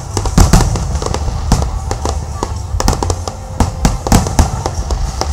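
Aerial fireworks bursting in rapid, irregular succession: sharp bangs and crackles several times a second over a steady low rumble, with the loudest bangs about half a second in.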